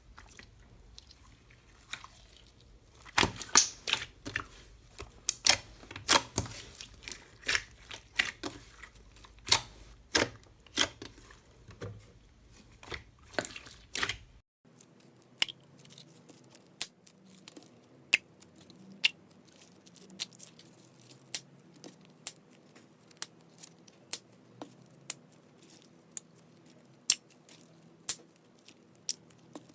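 Slime being squeezed and stretched by hand, giving dense sticky crackling and popping for about ten seconds. After a cut, slime gives sparser sharp pops about once a second.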